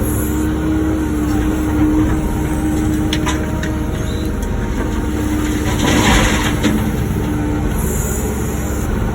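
Wacker Neuson ET145 excavator's diesel engine running steadily under work, a low rumble with a steady whine over it. A few clicks come about three seconds in, and a short louder burst of scraping about six seconds in.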